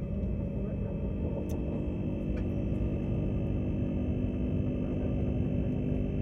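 Queensland Tilt Train running along the track, heard inside the passenger carriage: a steady rumble with a steady high whine over it.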